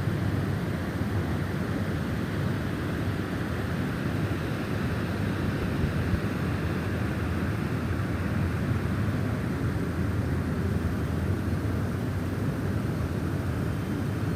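Snowstorm wind blowing, a steady low rushing noise with no distinct gusts.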